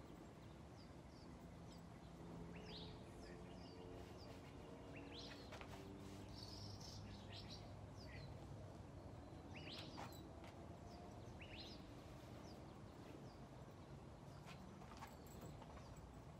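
Faint birds chirping here and there, short falling notes, over a low steady hum, with a few soft clicks.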